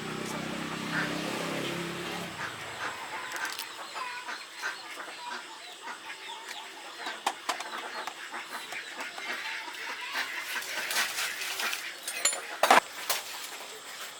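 Chickens clucking, with many short scattered calls. A low hum dies away about three seconds in, and there is a sharp click near the end.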